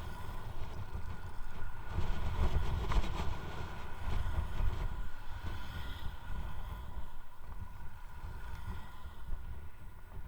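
Wind buffeting the microphone on a moving electric unicycle: a low rumble that swells from about two to five seconds in, with a faint steady high whine.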